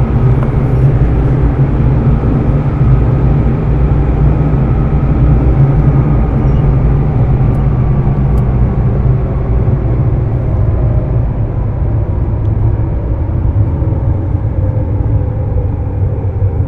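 JR 205 series electric train car running, its MT61 externally fan-cooled traction motors and wheels on the rails giving a steady heavy rumble. A faint whine over it slowly drops in pitch.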